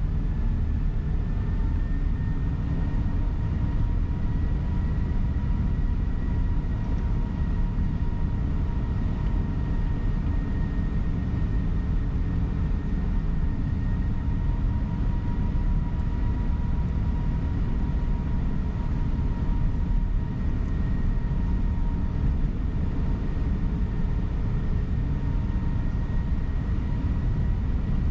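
Tour coach driving at a steady speed, heard from inside the cabin: a constant low engine and road rumble with a faint steady whine above it.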